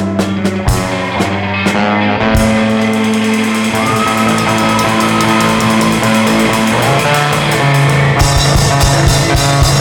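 Rock band playing, with electric guitar and drums. A few drum hits come in the first couple of seconds, then the band holds long chords, with cymbals washing in about eight seconds in.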